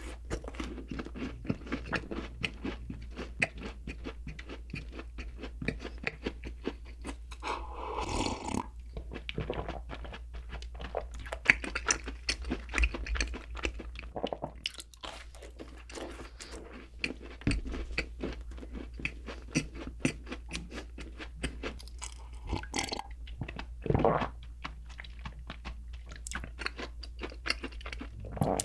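A person chewing and biting into doughnuts, a steady run of many small irregular clicks and crackles, with a couple of louder, fuller mouth sounds about eight seconds in and again about twenty-four seconds in.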